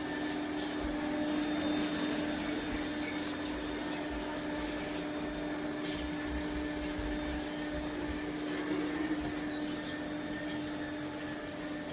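ECOVACS Deebot T50 Pro robot vacuum running: a steady whirring hiss with a constant hum.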